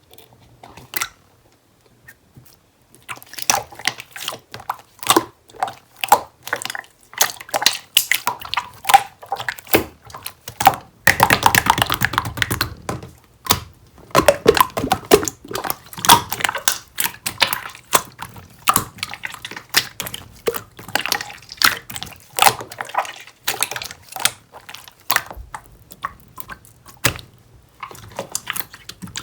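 Pink slime being squished and pressed by hand, making a quick, irregular run of sticky clicks and wet pops that starts about three seconds in, with a stretch of dense crackling squishing about halfway through.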